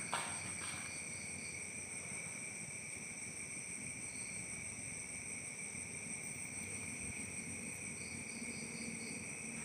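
Steady chorus of night insects such as crickets: a continuous high-pitched trilling at several pitches, with faint short runs of chirps near the start and again near the end.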